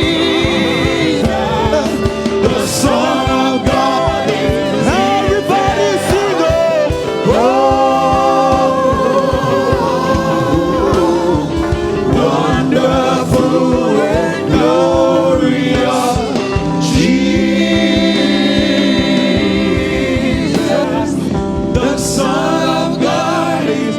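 Gospel worship music: several voices singing sustained, gliding melody lines over steady held accompaniment.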